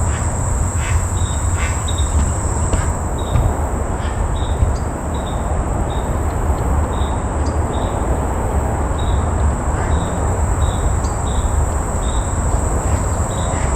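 Insects calling: a steady high-pitched drone with short chirps repeating about twice a second, over a loud low rumble.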